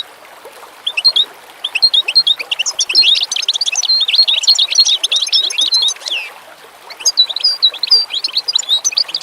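Small songbirds singing and chirping in quick, busy trills, with a short lull about six seconds in.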